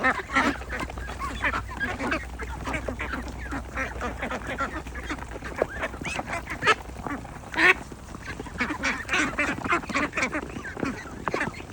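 A flock of domestic Agidel ducks quacking, many short calls overlapping without a break, with one louder call about two-thirds of the way through.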